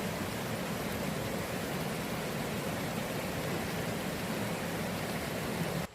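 Steady rushing of a mountain stream's water, cutting off suddenly at the very end.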